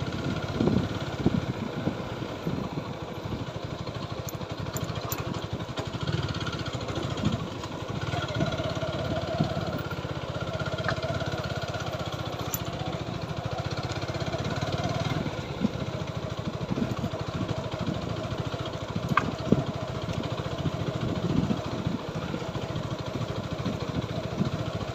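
TVS Apache 4V motorcycle's single-cylinder engine running steadily while riding, over a continuous low rumble, with a few short sharp knocks.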